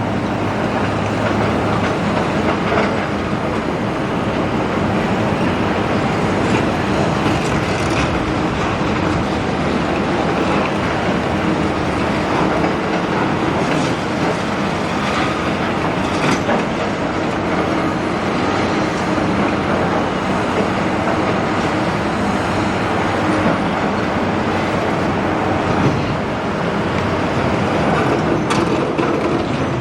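Doosan demolition excavator at work: its engine running under a continuous clatter of knocks and scraping as concrete and metal debris are broken and moved.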